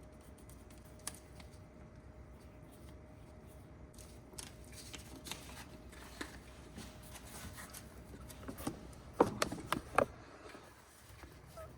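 Hand-work noises while fitting a fuel hose: faint rustling and small clicks, then a quick run of louder clicks and knocks about nine to ten seconds in.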